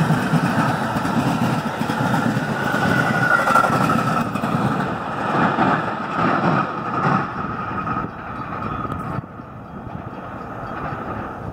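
Metra commuter train of a diesel locomotive and bilevel passenger cars rolling past on the rails, the running noise then fading as the train moves away, dropping off about nine seconds in.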